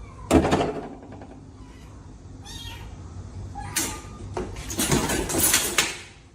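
A cat meowing, briefly, amid a few knocks and scuffling noises.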